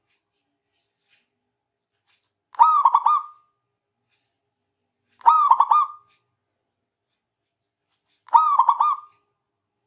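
Zebra dove (perkutut) cooing. Three short phrases of a few quick, rolling coo notes, each under a second long and about three seconds apart.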